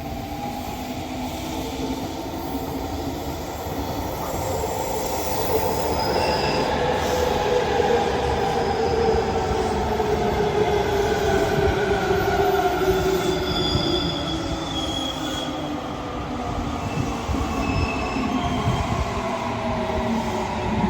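JR Kyushu 817 series electric train running, a steady rumble under tones that glide slowly up and down, with brief high wheel squeals now and then.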